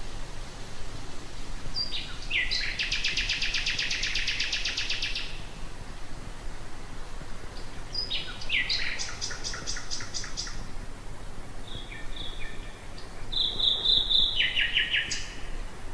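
Common nightingale singing: three separate phrases of rapid repeated notes, the loudest about three seconds in, with pauses between them.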